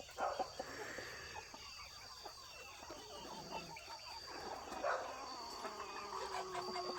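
Roosting chickens making soft, scattered clucks and low murmurs, with one bird holding a longer low call near the end. A faint, steady, high-pitched tone runs underneath.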